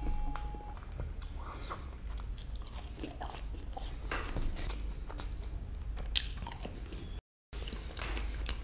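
Close-miked chewing and crunching of crispy peri peri fries, a run of scattered wet crunches and mouth clicks over a low steady hum. The sound cuts out completely for a moment about seven seconds in.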